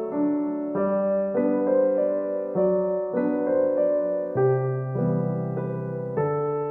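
Background piano music: a gentle melody of sustained notes changing about every half second.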